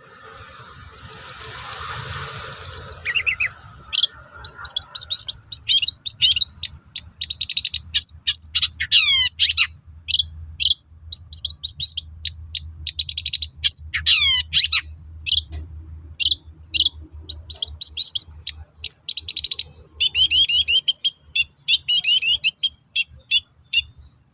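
Long-tailed shrike (cendet) singing a varied, fast chattering song: a rapid trill at first, then sharp high notes with a couple of long falling whistles, and a quick buzzy series near the end. A faint low hum runs underneath.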